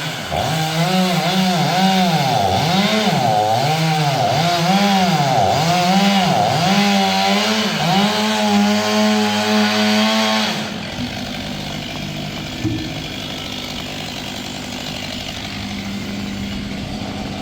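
Two-stroke chainsaw cutting wood, its engine pitch dipping and recovering again and again under load for about ten seconds, then running steadily and more quietly.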